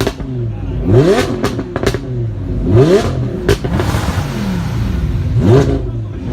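A supercar engine revved hard about three times, its pitch climbing steeply and falling back each time, with sharp pops between the revs.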